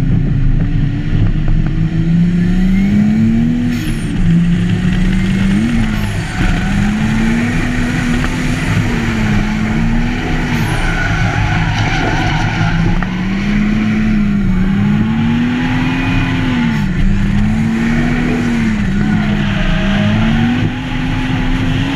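A drift car's engine revving up and down in repeated swells every couple of seconds as the throttle is worked through a drift, with some tyre squeal.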